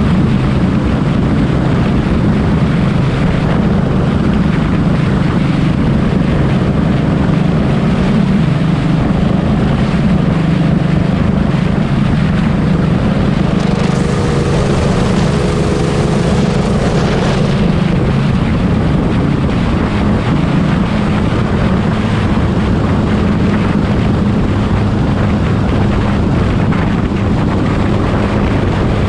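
Honda Wave 125 motorcycle being ridden at steady speed: a continuous engine drone under heavy wind rush on the microphone, with a brief louder rushing swell about halfway through.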